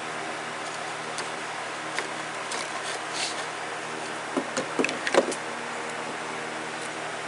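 Electric fan running with a steady hum and rush of air, with a few clicks and knocks of handling in the middle, loudest about five seconds in.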